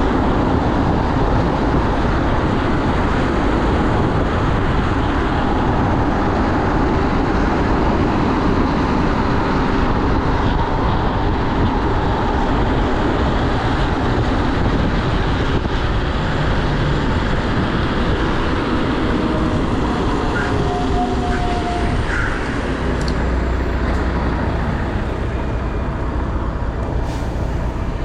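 Steady rushing road noise from riding a bike along a busy main road, with traffic going past.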